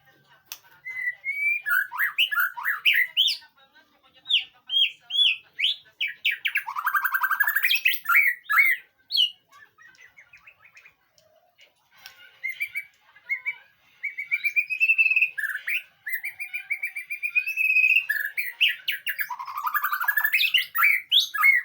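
White-rumped shama (murai batu) song: varied phrases of clear whistles, quick rising and falling notes and rapid trills, sung in several bursts with short pauses between them.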